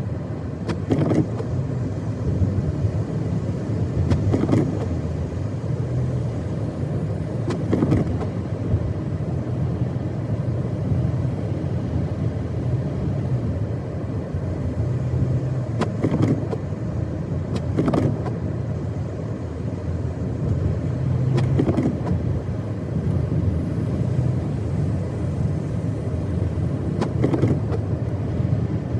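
Car driving on snowy roads: a steady low rumble of engine and tyres, broken now and then by short thumps.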